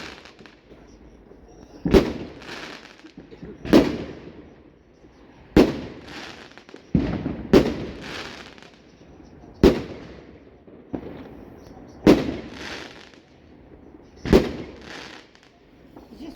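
Fireworks exploding in a steady series of sharp bangs, about one every two seconds. Each bang trails off over roughly a second.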